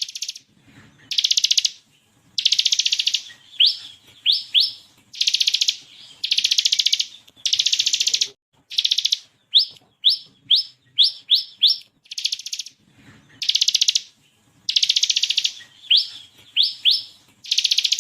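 Bar-winged prinia (ciblek) singing. It gives quick runs of short, sharply rising whistled notes, two to four at a time, alternating with longer rapid machine-gun trills, the 'ngebren' rattle that bird keepers prize.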